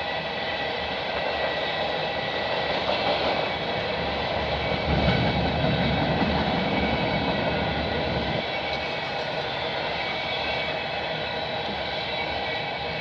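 Empty freight flatcars rolling past quickly, a steady run of wheel and rail noise with a ringing tone over it and a heavier rumble for a few seconds near the middle.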